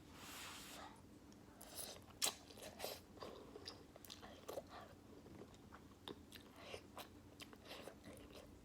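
Close-up mouth sounds of someone eating beef ramen noodles: wet chewing and lip smacks with many small clicks, starting with a brief rushing noise and with one sharper click a little over two seconds in.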